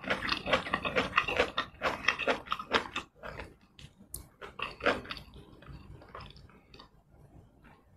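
Close-miked ASMR chewing: wet, clicky chewing of a mouthful of food, dense for about the first three seconds, then trailing off into fewer, fainter mouth clicks.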